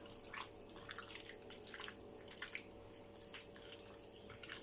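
Faint, irregular wet squelches and small clicks of chicken pieces being mixed in a thick marinade of yogurt, cornflour and egg white.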